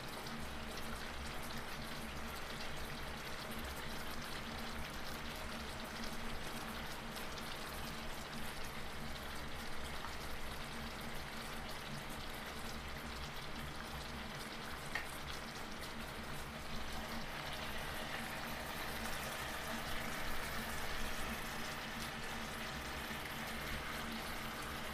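Chicken pieces simmering in soy sauce and vinegar in a stainless steel pan, a steady sizzling and bubbling.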